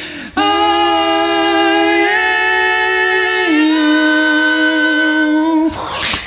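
Beatboxers singing long held notes a cappella into the mic, the pitch stepping to new notes twice, then a short breathy rush of noise near the end.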